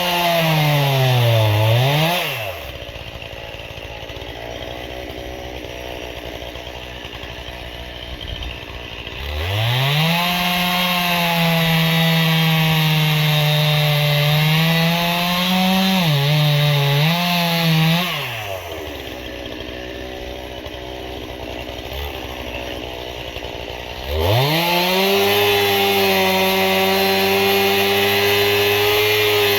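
Stihl two-stroke chainsaw cutting ash firewood rounds at full throttle, its pitch sagging and wavering as the chain bites. It drops to idle twice for several seconds between three spells of cutting.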